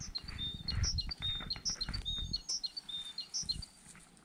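A small songbird chirping in a quick series of short high notes. Under the birdsong, for the first two and a half seconds, there is a low rumble and a few soft clicks.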